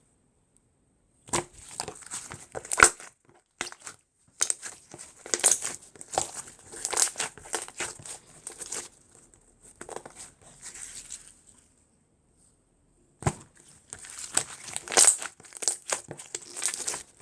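Slime being squeezed and stretched by hand, giving bursts of crackling, popping clicks separated by short silent pauses.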